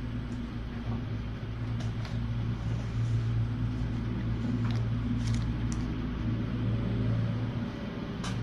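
Steady low hum, like a running machine or appliance, with a few faint clicks and knocks.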